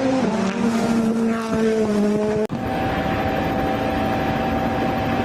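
Rally car engine running with its pitch easing slightly downward, then an abrupt cut about halfway through to a rally car engine holding a steady note.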